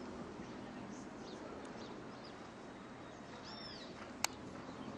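Steady outdoor background noise with a bird calling: faint chirps, then a clearer arched two-note call a little past three seconds in. A single sharp click comes about four seconds in and is the loudest sound.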